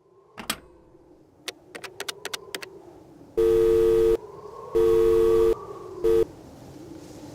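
A handful of sharp clicks, then a telephone tone: a steady two-pitch beep sounding twice for most of a second each, with a short third beep cut off near the end, over a faint hum.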